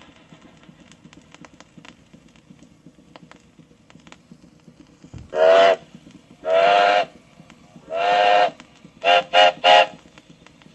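A train whistle sounding six blasts over a low rumble: three longer blasts, then three short quick ones.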